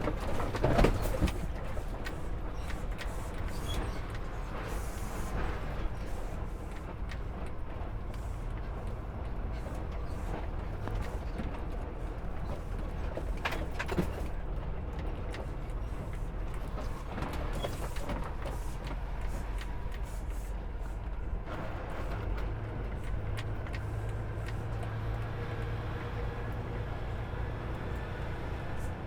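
Semi-truck engine running and road noise heard inside the cab as the truck drives, a steady low hum, with a few sharp knocks in the first second or so.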